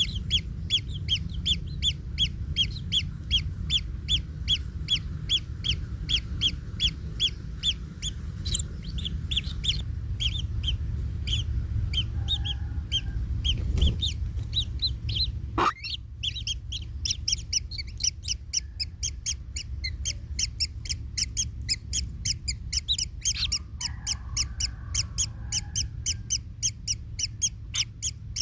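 Kingfisher nestlings calling in a rapid, steady series of short, high, harsh calls, about three a second. These are typical begging calls from chicks in the nest. A steady low rumble runs underneath, with two knocks about halfway through.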